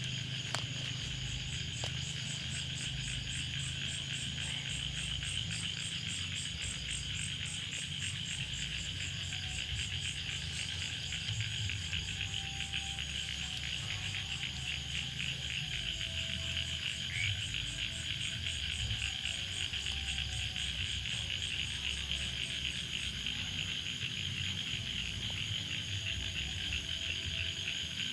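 Steady chorus of frogs and insects calling in the rice paddies: a continuous high, rapidly pulsing trill, with a low rumble underneath.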